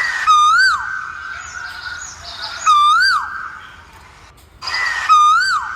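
A bird calling three times, about two and a half seconds apart. Each call is a loud, clear note that rises and then swoops down, with a rasping noise at its start and a steady high tone lingering after it.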